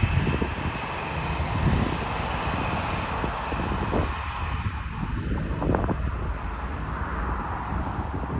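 Airbus A321neo's CFM LEAP-1A turbofan engines running as the jet arrives, a steady jet rumble with a faint high whine. Wind buffets the microphone throughout.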